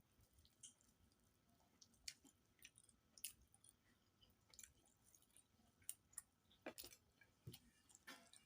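Faint chewing of rice and curry, with irregular soft wet mouth clicks and smacks, a few sharper ones in the second half.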